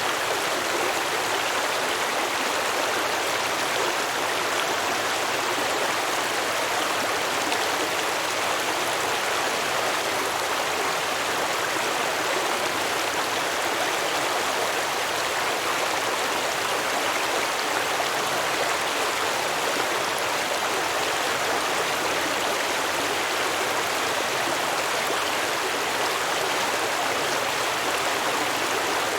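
A stream of water flowing and babbling over rocks, steady and unbroken.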